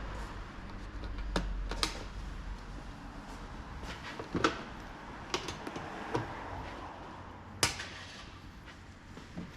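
Scattered clicks and knocks of tools and parts being handled during car repair work, about half a dozen, with the sharpest a little under two seconds in, halfway through and near the end. A low rumble underneath fades away in the first few seconds.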